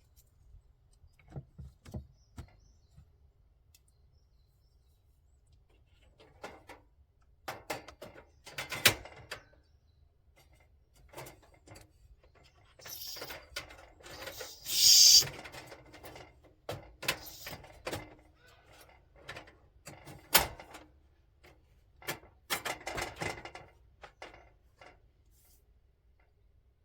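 Objects being handled: scattered knocks, clicks and rustling, with a louder rushing, hissing noise about halfway through.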